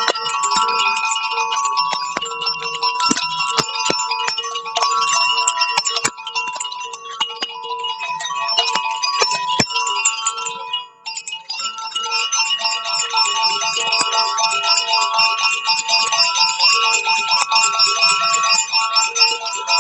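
Metal chimes played without a break: many overlapping ringing tones, renewed by frequent strikes, with a brief lull about eleven seconds in.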